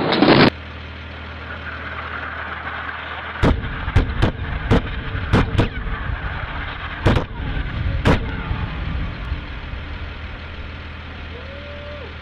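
A loud blast of noise that cuts off abruptly half a second in, then a steady low rumble broken by about eight sharp bangs over some five seconds.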